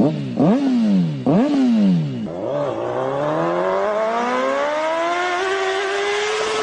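An engine revved twice, rising and falling quickly, then climbing steadily in pitch for several seconds as if accelerating.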